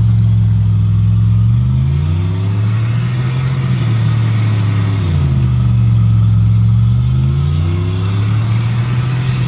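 Off-road truck engine revving under load, its pitch climbing about two seconds in, dropping about five seconds in, then climbing again near the end.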